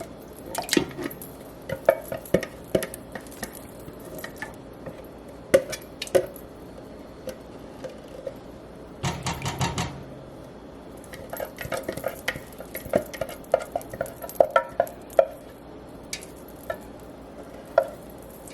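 Kitchen utensil clinking and scraping against a metal can and a soup pot as crushed tomatoes are emptied in. Scattered knocks and clinks, with a burst of fast scraping about nine seconds in.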